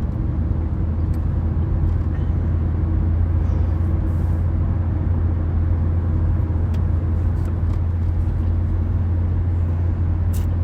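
Steady low drone of a car on the move, engine and road noise heard from inside the cabin, with a few faint ticks.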